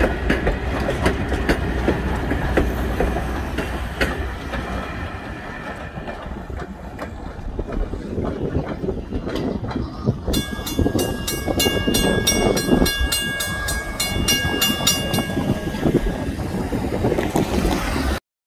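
Passenger coaches rolling past on jointed track, wheels clicking over the rail joints, the rumble thinning as the train draws away. About ten seconds in, the grade-crossing signal's bell rings in quick, even strokes for about five seconds.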